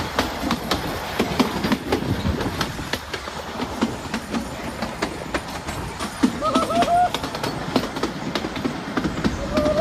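Narrow-gauge passenger train running at speed, heard from the open carriage doorway: a steady rumble with a constant clatter of wheels over the rail joints. Two drawn-out tones rise above it, about six seconds in and again near the end.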